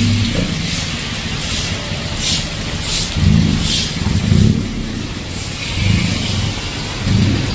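Heavy rain hissing on a flooded street, with traffic running through the water. Short splashes come a couple of seconds in, with low rumbling pulses after them.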